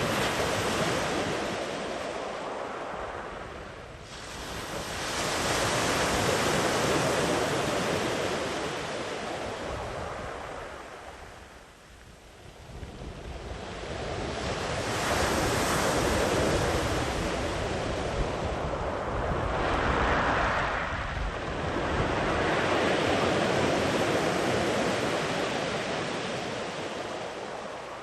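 Sea waves breaking and washing up a sandy beach in slow surges, each swell building and fading over several seconds, with some wind on the microphone.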